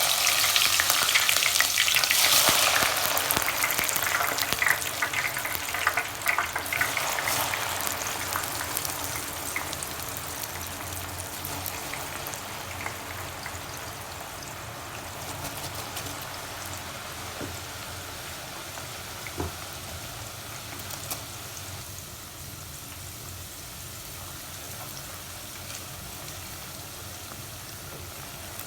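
Sliced onions frying in hot oil, crackling and sizzling, with occasional clicks of stirring. The sizzling is loudest in the first few seconds and gradually dies down.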